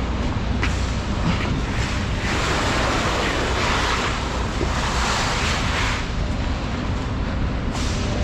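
Wind rushing over the microphone, swelling for several seconds about two seconds in, over a steady low rumble.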